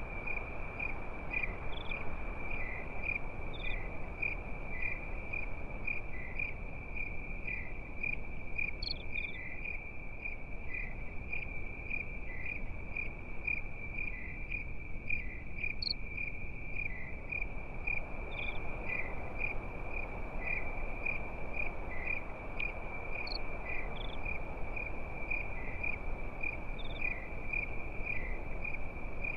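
Crickets chirping continuously in a high, evenly pulsing trill, over a soft steady rushing noise.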